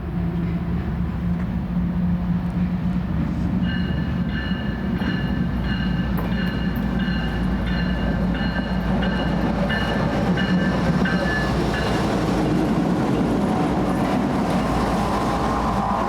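A pair of CSX GE ES44AH diesel locomotives running light past at close range, their engines making a steady low drone. A bell rings at an even pace from about four seconds in to about twelve seconds, then wheel-on-rail noise builds near the end.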